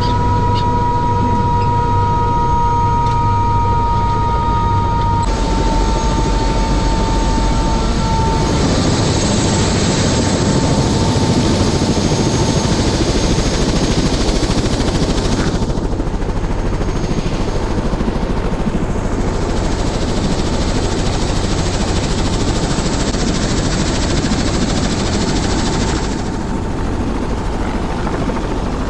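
Helicopter running: steady, loud rotor and engine noise with a thin high whine over it. The sound changes abruptly about five seconds in and twice more later.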